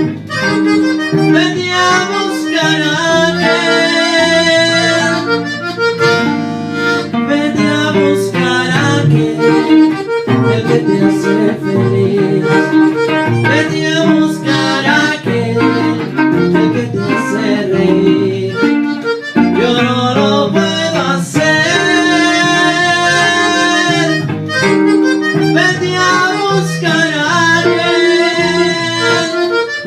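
Instrumental break of a song: an accordion plays the melody in a run of held and moving notes over a steady guitar accompaniment.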